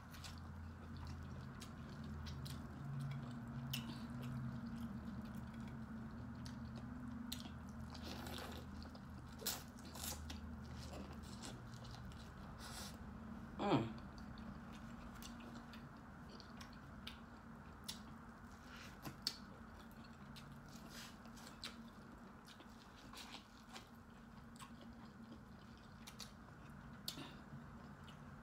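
Close-up biting and chewing of corn on the cob, many small wet clicks and crunches, over a low steady hum. One louder, brief falling sound about fourteen seconds in.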